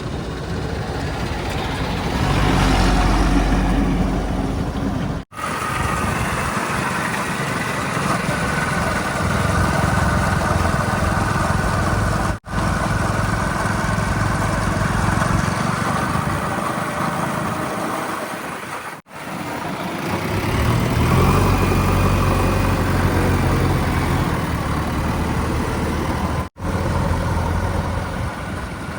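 Heavy diesel engines running and idling with a deep rumble, in a string of short clips broken by abrupt cuts about every seven seconds.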